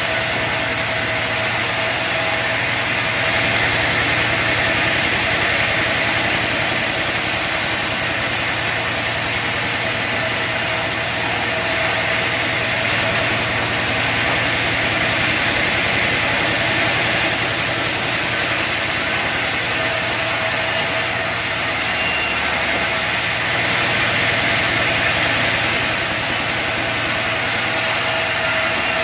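Bandsaw sawmill running steadily, a continuous machine noise with a steady high hum and only small swells in level.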